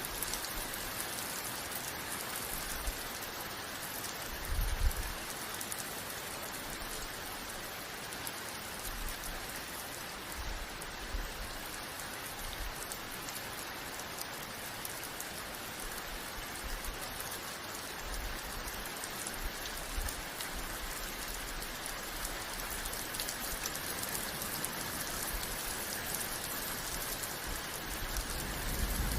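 Steady heavy rain falling and pattering on surfaces, an even hiss of drops. About five seconds in there is a brief low thump, with a few softer low rumbles later on.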